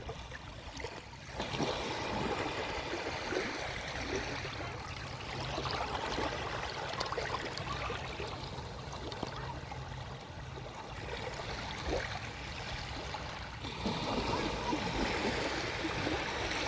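Small sea waves washing and lapping on the shore, the wash swelling about a second and a half in and again near the end, with faint voices of people playing in the water far off.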